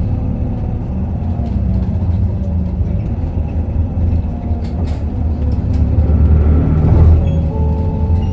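Inside a moving Isuzu Erga city bus: its 4HK1 inline-four diesel engine and drivetrain running under way, with a few gliding whines. The sound swells about six to seven seconds in.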